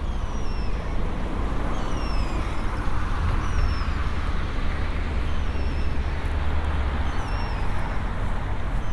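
Road traffic with a steady low rumble, one vehicle passing and fading over several seconds. A bird repeats a short, high, falling call about once a second.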